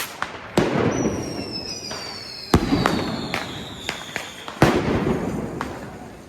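Fireworks going off: three loud bangs about two seconds apart, each followed by a long rolling echo, with smaller cracks in between. A faint whistle falls slowly in pitch through the middle.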